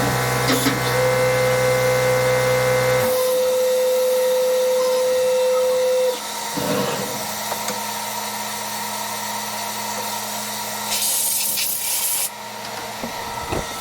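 CNC vertical mill running. A steady hum and whine stops about three seconds in, and a single whining tone carries on until about six seconds in. A quieter machine sound follows, with a short burst of hiss near the end.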